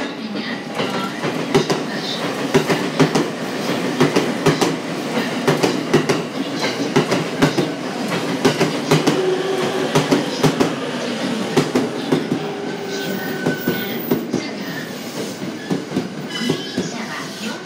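JR East E217 series electric commuter train pulling into the platform. Its wheels clatter over the rail joints in a quick, uneven run of clicks that thins out as the train slows almost to a stop.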